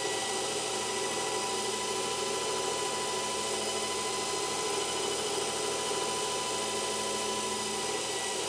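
Small electric motor test rig running at a steady speed: a constant whine of several steady tones over a hiss.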